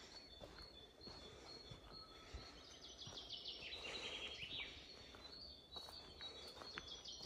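Faint birdsong: a small bird calls in quick runs of high, descending chirps, once in the middle and again near the end, over quiet outdoor background noise.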